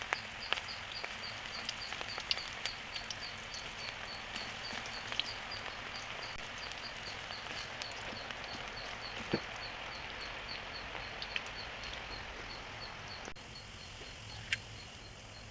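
Cabbage 65 deep-frying in hot oil: a steady sizzle with scattered crackles. A faint high chirp repeats about three times a second behind it.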